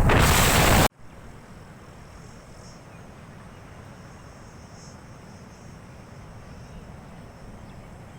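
Loud wind buffeting the microphone cuts off suddenly under a second in. What remains is a quiet background of faint, steady insect chirring, like crickets, over a low rumble.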